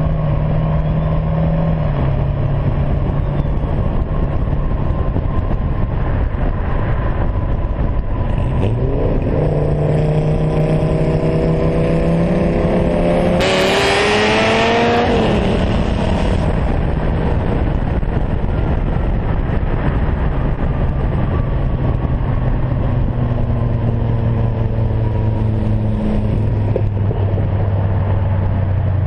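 Car engines in a roll race. They run at a steady cruise, then about a third of the way in they open up hard, their pitch climbing for several seconds into a loud rush of noise. Near the halfway point they lift off and settle back to a steady low drone.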